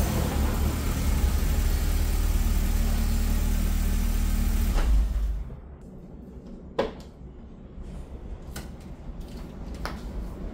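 Volkswagen Gol G3's engine idling with a steady low rumble, then switched off about halfway through. After that come a few scattered light clicks and one sharper knock.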